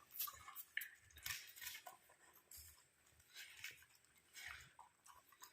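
A dog chewing mutton: faint, irregular wet smacks and crunches of eating, several times a second in uneven bursts.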